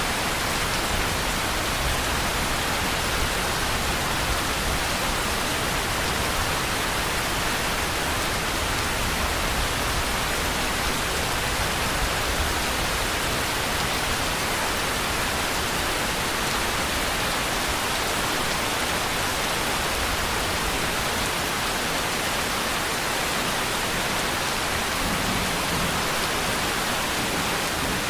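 Steady rainfall: an even, unbroken hiss of rain with no pauses or changes in level.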